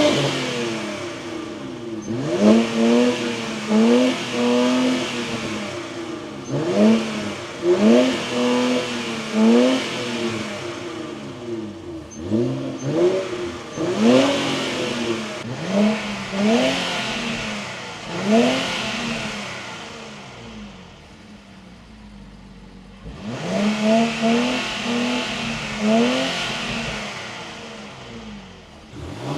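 An Infiniti's engine and exhaust being revved in quick blips, each rev climbing fast and dropping back toward idle, one or two seconds apart. About two-thirds of the way through it settles at idle for a few seconds, then is blipped again.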